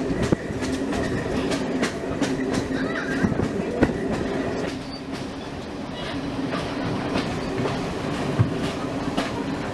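Railway carriage running along jointed track: a steady rumble with repeated clicks as the wheels pass over the rail joints.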